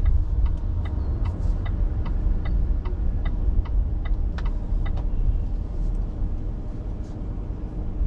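Car driving with a steady low road and engine rumble, and a turn-signal indicator ticking evenly about two to three times a second, which stops about five seconds in.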